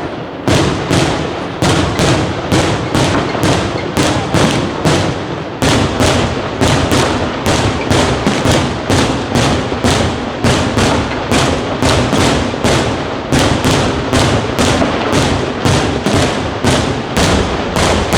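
Professional aerial fireworks display in a rapid barrage: shell bursts and thuds following each other at about three a second without pause, the low booms growing denser about six seconds in.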